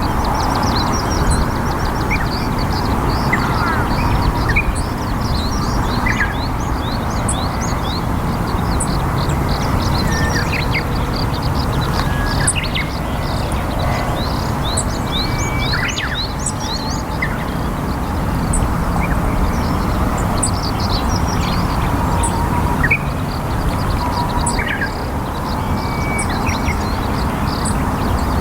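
Many small birds chirping, with quick high downward-sliding notes coming several times a second, over a steady loud rushing background noise.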